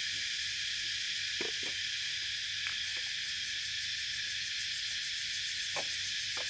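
Steady high-pitched buzzing of insects, with a fine regular pulse, and a few faint short knocks.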